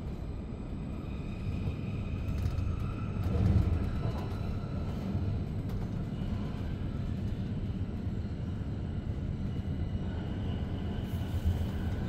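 Steady low running rumble inside a moving SBB Re 450 DPZ double-deck commuter train, with faint high whining tones above it. The rumble swells briefly about three and a half seconds in.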